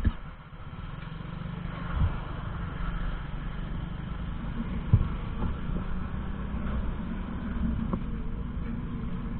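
A vehicle engine running steadily with a low rumble, with a few sharp knocks, the loudest about five seconds in.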